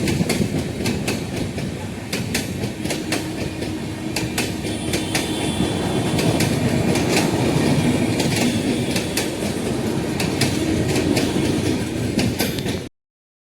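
Passenger train running on track: a steady rumble with rapid clicks of the wheels over rail joints and a faint wheel squeal. It cuts off abruptly near the end.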